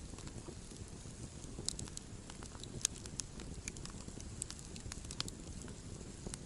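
Wood campfire burning with a low steady rumble and irregular sharp crackles and pops, the loudest pop about three seconds in.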